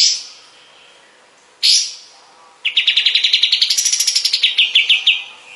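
Kapas tembak bird singing: two short, sharp calls, then a fast trill of about ten notes a second that climbs in pitch and falls away again.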